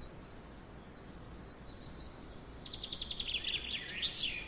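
A songbird singing. A thin high note is followed, about two seconds in, by a quick run of notes falling in pitch, ending in a short flourish near the end, over a low steady outdoor hiss.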